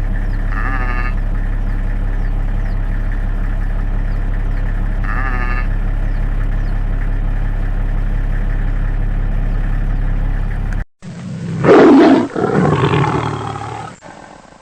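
A steady low hum with two short animal calls, one near the start and one about five seconds in. After a sudden cut comes a loud animal call with more calling after it, fading out near the end.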